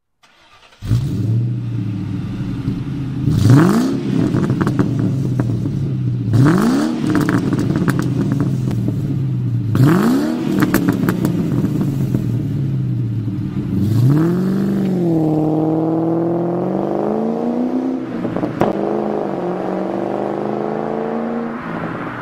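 Ford Mustang Bullitt V8 breathing through a Magnaflow aftermarket exhaust. It idles with a deep burble and is blipped three times in quick revs, each dropping back to idle. Later it is held at higher revs for a few seconds, blipped once more, and then settles lower.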